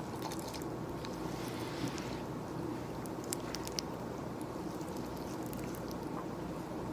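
Close-miked ASMR handling sounds over a steady office room hum: a brief rustle, then a few isolated sharp clicks or taps.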